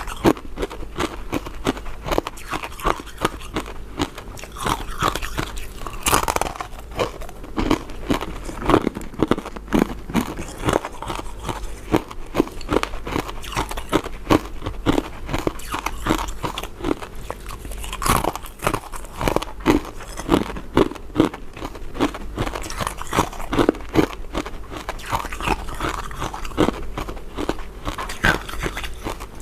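A person biting and chewing soft, powder-coated mint sweets: a steady run of short clicks and crunches.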